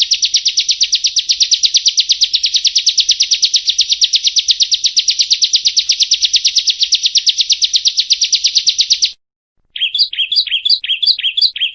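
Prinia (perenjak) song: a long, fast trill of evenly repeated buzzy notes, about ten a second, that stops about nine seconds in. After a brief gap, a run of quick down-slurred notes begins.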